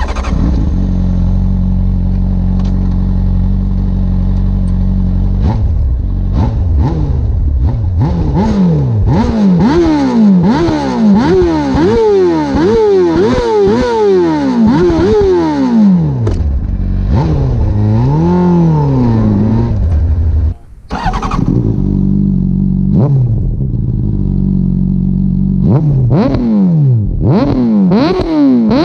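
Honda CBR600RR inline-four engine idling, then revved again and again in quick blips that rise and fall in pitch. The exhaust is near stock, with the catalytic converter and exhaust servo valves removed. It stops briefly about 20 seconds in, then idles and is revved again.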